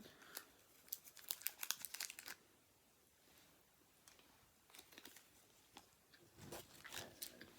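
Candy wrapper crinkling and tearing. There is a quick flurry of sharp crackles in the first two seconds and a few softer crinkles near the end.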